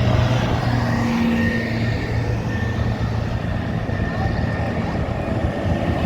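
Engines of passing trucks and tractors running with a steady low hum, and a brief higher engine note about a second in.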